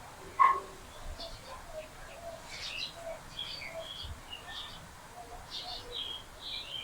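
Small birds chirping on and off in the background, short high calls scattered throughout. About half a second in there is one brief, louder sound.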